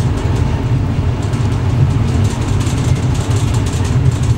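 Running noise of an X11 electric multiple unit heard from inside the driver's cab: a loud, steady low rumble from wheels on rail and the running gear, with faint rapid ticking rattles over it.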